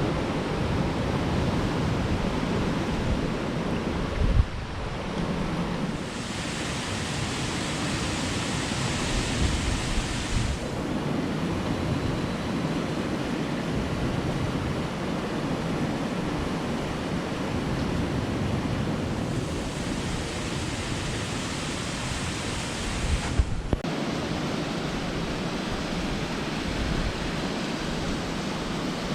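Steady rush of falling water from a waterfall, with some low wind rumble on the microphone. The sound changes abruptly at cuts about four and a half and twenty-three and a half seconds in, and it is brighter and hissier for a few seconds after about six seconds in.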